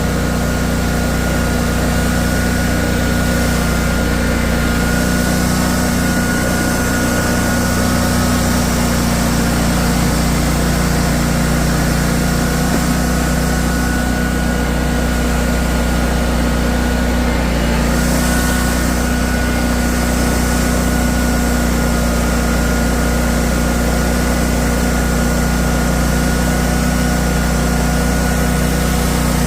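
An engine running steadily at a constant speed, with a thin steady whine above it.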